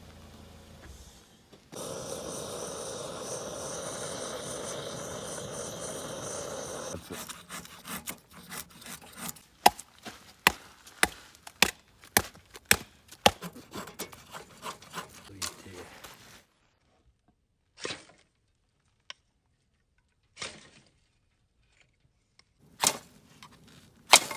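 Wood being chopped: a run of sharp, irregular knocks, often one or two a second. It comes after about five seconds of a steady hiss, and is followed by a few isolated short sounds in near quiet.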